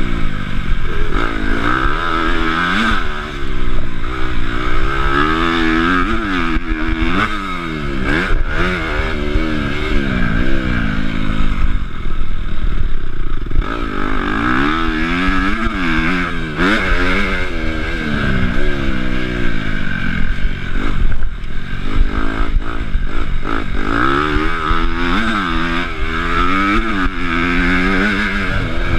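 Honda CRF250 motocross bike's engine revving up and down over and over as it accelerates and shifts. The throttle eases off for a couple of seconds about twelve seconds in. Wind noise and a few knocks sound throughout.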